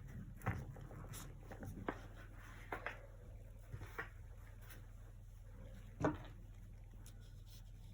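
Acrylic painting sounds: several brief, separate soft knocks and scrapes of a brush and painting tools being handled, the loudest a knock about six seconds in, over a steady low hum.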